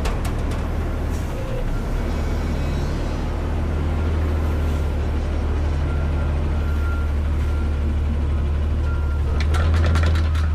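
Front-load garbage truck's engine running steadily with a low hum, and a short clatter of knocks near the end.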